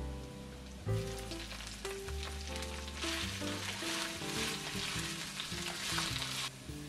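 Garlic and asparagus sizzling in hot oil in an enameled cast-iron wok as they are stir-fried with a wooden spoon. The sizzle starts about a second in, is loudest in the second half, and cuts off abruptly near the end.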